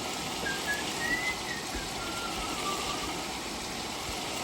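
Steady hiss of food sizzling and cooking in a pan on the stove, with a few faint thin whistling tones in the first couple of seconds.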